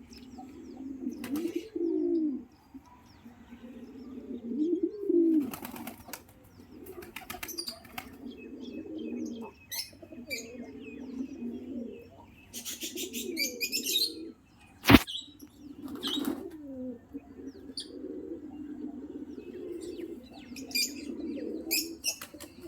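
Indian fantail pigeons cooing over and over in low, rolling coos, with bursts of wing flapping now and then and one sharp knock about fifteen seconds in.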